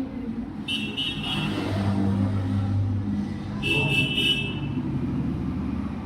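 A motor vehicle engine running and swelling louder about a second in. Two short, high-pitched horn toots sound, one about a second in and one about four seconds in.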